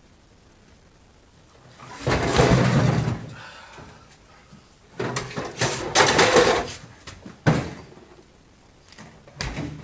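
Refrigerator cabinet being taken apart: loud, noisy bursts of work about a second long, starting about two seconds in, again from about five to seven seconds, a sharp bang at about seven and a half seconds, and another burst near the end.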